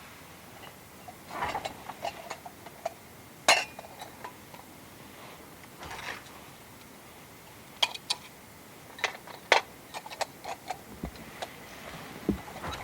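Light clinks, taps and knocks of small metal camp gear being handled, about a dozen sharp clicks at irregular spacing, the loudest about three and a half seconds in and again near the ten-second mark.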